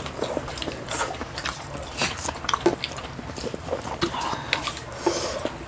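People chewing and biting into grilled food close to the microphone, with irregular wet mouth clicks and smacks.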